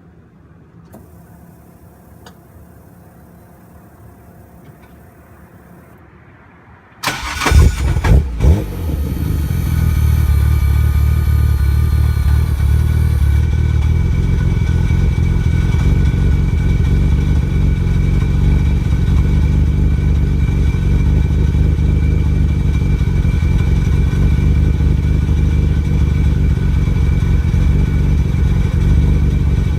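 Quiet at first; about seven seconds in, a Nissan Skyline GT-R R33's RB26DETT twin-turbo straight-six starts up through its aftermarket exhaust, flaring in a few quick loud peaks, then settles into a steady idle.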